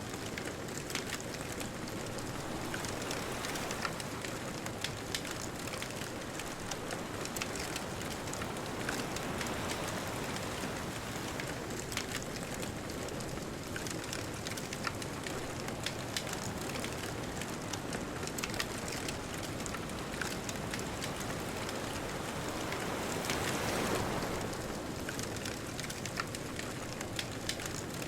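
Wood fire crackling with frequent sharp pops and snaps over a steady wash of distant ocean surf; a wave swells louder about three-quarters of the way through.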